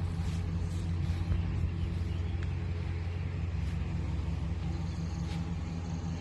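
2006 Chevrolet 1500 pickup's engine idling steadily.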